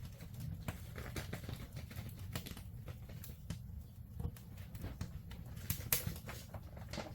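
Wood fire crackling, with irregular sharp pops over a steady low rumble; one louder pop about six seconds in.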